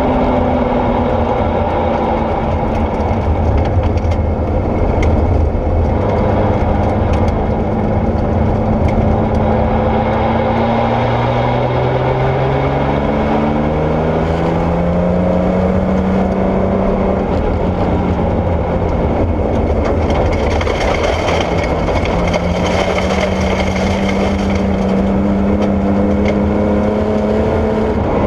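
Porsche 964 rally car's air-cooled flat-six running hard over gravel, its pitch climbing and dropping as it accelerates and backs off. A loud, steady rush of tyre and gravel noise runs beneath it.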